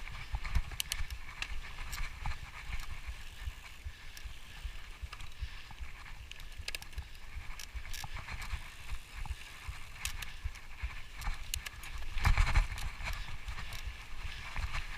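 Mountain bike rolling over a rough trail: frequent rattles and knocks from the bike over low wind rumble on the microphone, louder about twelve seconds in.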